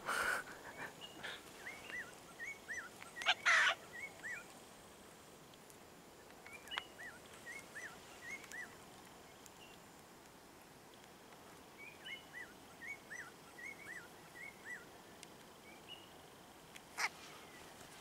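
A bird calling in short, hooked chirps, two or three a second in runs of several, with pauses between the runs. A few brief rustles or clicks break in, loudest about three and a half seconds in and near the end.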